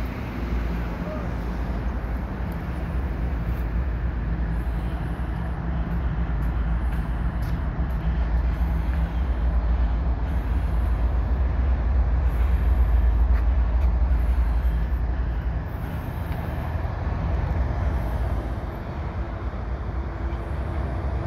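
Diesel locomotive engines running with a steady low rumble from a passing train. The rumble swells to its loudest about twelve seconds in and drops back a few seconds later.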